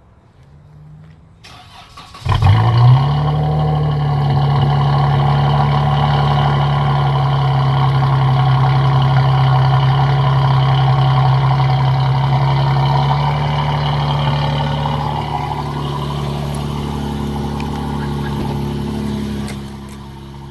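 Dodge Challenger with a Borla S-Type stainless steel cat-back exhaust cold starting about two seconds in: a sudden loud flare of revs, then a steady fast cold idle that eases down slightly near the end.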